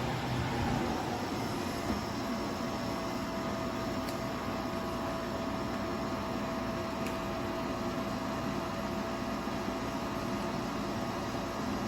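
Portable spot air conditioner running: a steady rush of fan air with a steady whine, which dips slightly in pitch during the first second or so.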